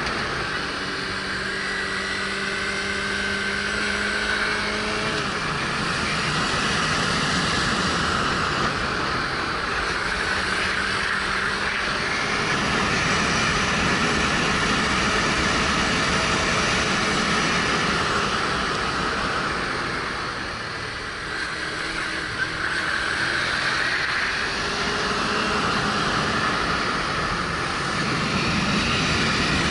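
Riding noise from a 2013 Suzuki GW250 motorcycle: wind rushing over a helmet-mounted microphone, with the bike's parallel-twin engine running underneath and its pitch shifting as the revs change.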